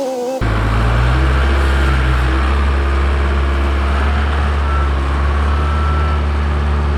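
Diesel engine of a Case 580K backhoe running at a steady, constant speed. A short whine from the previous shot cuts off abruptly about half a second in.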